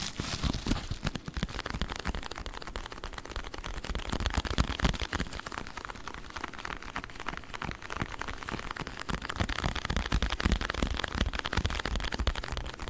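A pack of sponges being handled: a dense, irregular crackling and crinkling with many soft low thuds.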